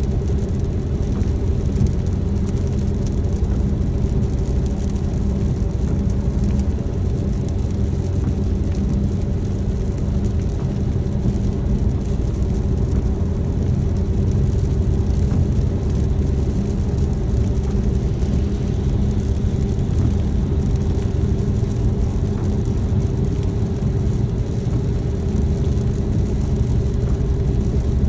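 Car driving at a steady speed, heard from inside the cabin: an even low road-and-engine rumble with a constant hum.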